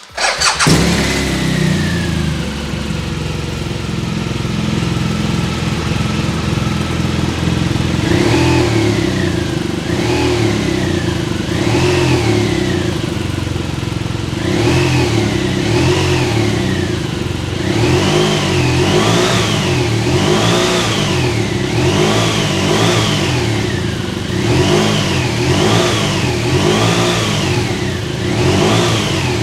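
2016 BMW R1200RS's boxer twin engine starting, catching at once and settling to idle, then revved with repeated throttle blips from about eight seconds in, coming quicker through the second half.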